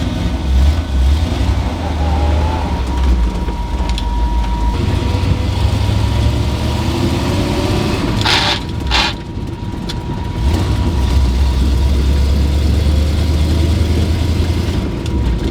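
1978 Jeep truck driving, a steady low engine and road rumble that eases briefly about nine seconds in. Two short hisses come just before the dip.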